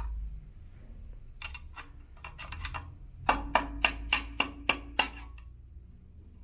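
Metal parts of an elliptical's crank assembly being knocked with a tool: a few light taps, then about seven sharper strikes in quick succession, each with a brief metallic ring.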